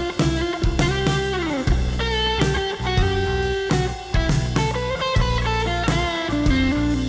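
Electric guitar played through a Seymour Duncan Tweak Fuzz pedal: fuzzy, sustained notes with a bent note rising about a second in, over bass and drums.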